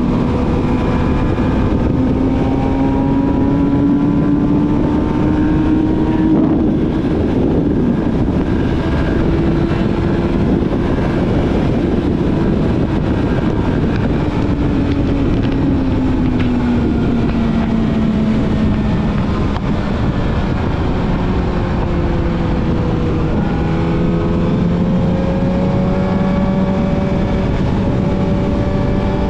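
Yamaha YZF-R6's inline-four engine, fitted with a full aftermarket exhaust system, pulling steadily under way. Its note climbs gently for about the first ten seconds, falls away slowly, then settles a little higher near the end, with wind rushing over the microphone.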